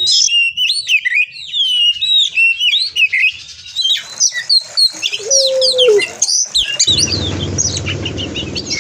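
Oriental magpie-robin (kacer) singing a fast run of varied whistled notes, many sliding up or down in pitch, with one lower held note about two-thirds of the way through.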